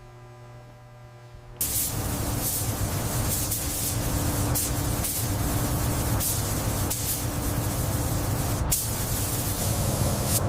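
A steady hissing spray of air with a low hum beneath it, starting abruptly about one and a half seconds in after a few quiet, steady tones.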